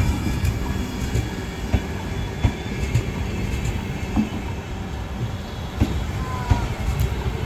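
Express train's passenger coaches rolling along the track: a steady low rumble with sharp clicks of the wheels over rail joints at irregular intervals.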